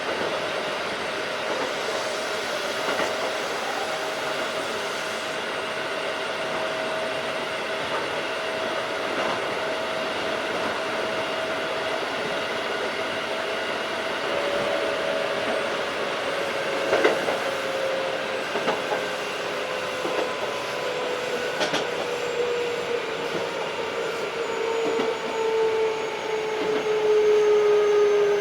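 Keikyu 1500 series field-chopper electric train running at speed, a steady motor and gear whine over the running noise that slowly falls in pitch from about halfway as the train slows. A few sharp clicks of wheels over rail joints.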